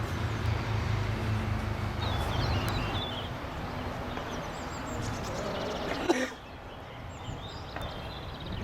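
Birds chirping in short calls over outdoor background noise, while a low rumble fades away in the first few seconds. A sharp click about six seconds in, after which the background turns quieter.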